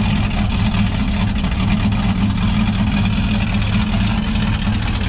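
A vehicle engine idling steadily with a deep, even hum.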